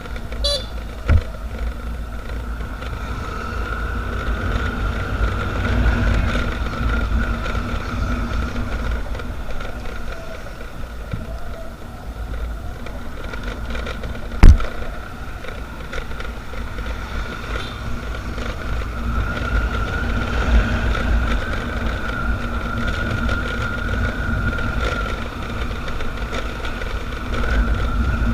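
Motorcycle on the move: steady engine and road noise with a wavering tone, over low wind rumble on the microphone. A single sharp knock comes about halfway through.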